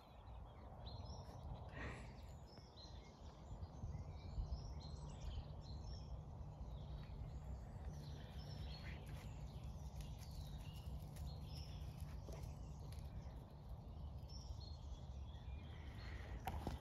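Faint birdsong: many short, scattered chirps and whistles from small birds, over a steady low rumble.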